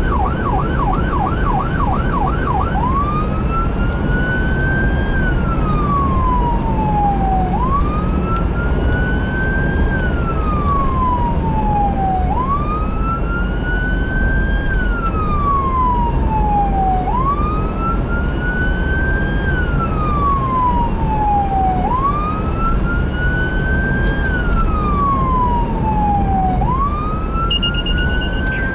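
Electronic emergency-vehicle siren switching from a fast yelp to a slow wail about three seconds in, the wail rising and falling about every five seconds, over a steady low engine and road rumble. A short beep sounds near the end.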